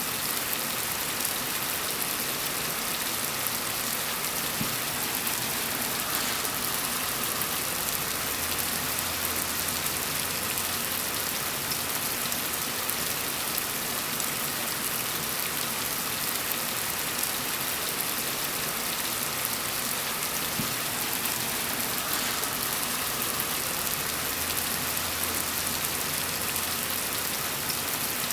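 Steady rain falling on a surface, an even hiss of many drops without let-up. A faint low rumble rises under it twice.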